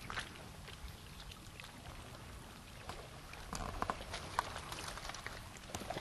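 Faint tidal shoreline ambience: water trickling and lapping among stones, under a low rumble. Small clicks and ticks come more often from about halfway through.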